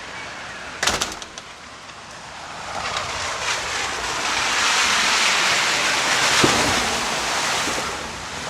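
A vehicle passing on a rain-soaked road: its tyre hiss swells up over a few seconds and fades away again. A sharp clatter comes about a second in.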